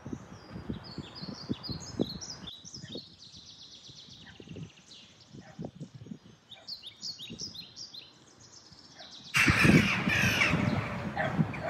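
Birds calling, with many short high chirps repeating one after another. About nine seconds in, a much louder, denser stretch of calls starts suddenly.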